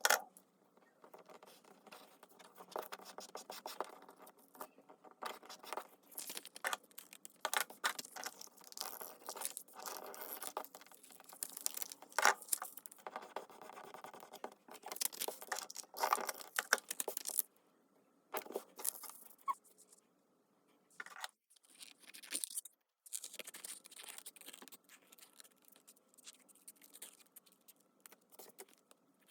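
Paper and craft materials handled at a desk: irregular rustling, scraping and tapping of paper, with a few quieter pauses in the second half.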